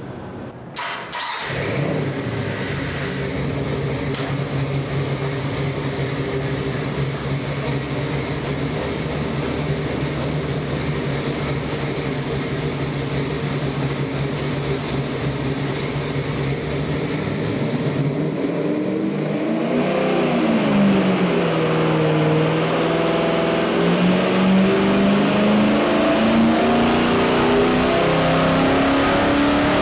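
A carbureted Ford 418 Windsor stroker V8 on an engine dyno fires up about a second in and runs at a steady idle. Around 20 s it revs up and drops back once, then starts a slow, steady climb in revs: the start of a dyno pull under load.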